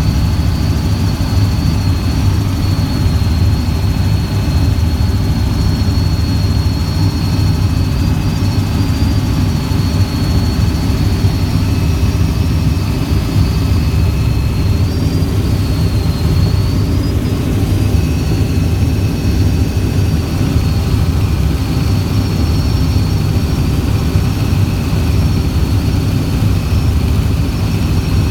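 Helicopter in flight: a steady, loud drone of engine and rotor with a thin, high whine held above it.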